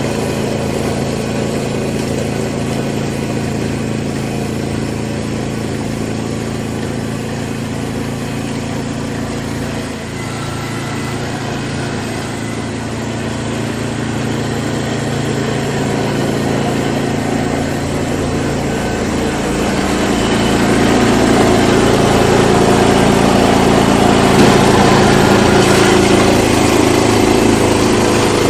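An old engine running steadily. About two-thirds of the way through it picks up and runs louder.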